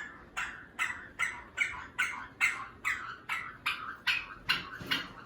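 Pet parrot squawking over and over in short, evenly spaced calls, about two or three a second.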